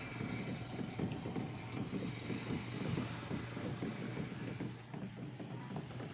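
A motor running steadily with a low hum, under wind buffeting the microphone.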